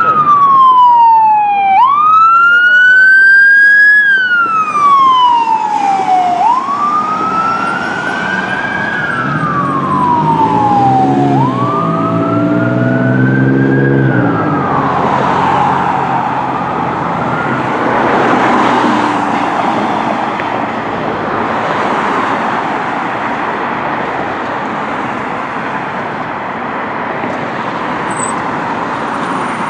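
Fire engine siren wailing loud, its pitch sweeping up and down in a slow cycle of about four to five seconds, with a deep horn sounding for a few seconds about ten seconds in. After about fourteen seconds the wail gives way to a steady rush of engine and road noise that slowly fades.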